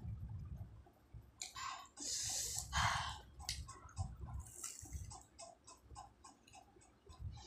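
Close-up eating of a fried samosa: biting and chewing with wet mouth clicks, at about three to four clicks a second in the second half. Two loud noisy rushes come about two to three seconds in.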